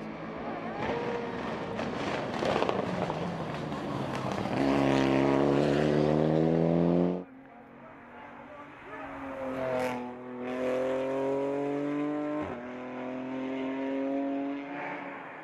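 Hill-climb race car engines at full throttle. One grows louder and passes close, then cuts off abruptly about seven seconds in. A second car accelerates hard, its revs climbing and dropping back at two gear changes.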